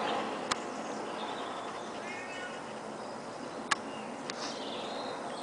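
Airbus A321 jet engine noise fading away as the airliner descends past, with a short wavering animal call about two seconds in and two sharp clicks, one near the start and one near the end.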